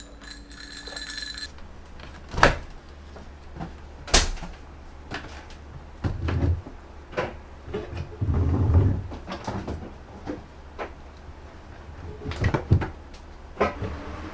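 Household handling noises: a series of sharp knocks and clicks with a few heavier dull thumps, over a low steady hum.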